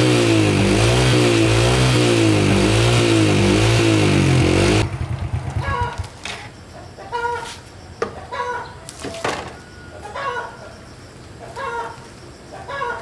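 Small four-stroke motorbike engine running loud, its revs wavering up and down, then cutting off abruptly about five seconds in. After it, chickens clucking in short calls about once a second.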